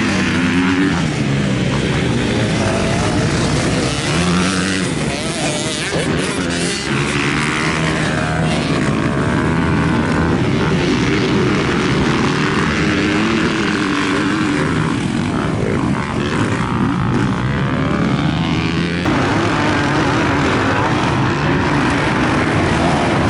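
Several motocross bike engines running and revving at once, their pitch rising and falling repeatedly as the bikes go through the throttle.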